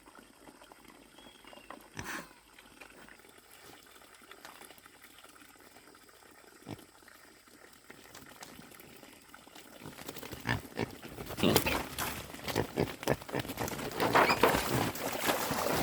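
Piglets grunting, faint and sparse at first, then louder and busier with many short sounds from about ten seconds in.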